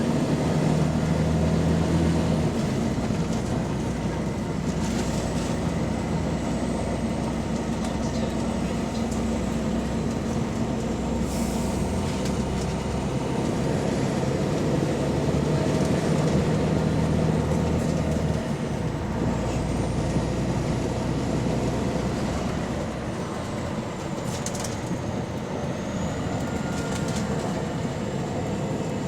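Volvo B9TL double-decker bus driving through a ZF Ecolife automatic gearbox, recorded on board. The engine note shifts as it pulls and eases off, a high whine rises and falls several times, and there are a few short hisses or clicks. The bus has an exhaust leak.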